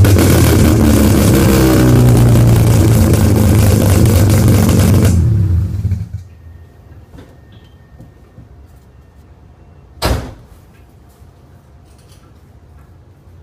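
Mazda RX-7's bridgeported 12A rotary engine running very loud through a Racing Beat header and exhaust, then shut off about five to six seconds in. Faint ticks follow, and there is a single sharp knock about ten seconds in.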